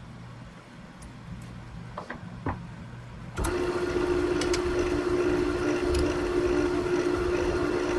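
A low hum with a few light clicks, then about three and a half seconds in a wood lathe starts abruptly and runs steadily at slow speed, a steady hum over a hiss.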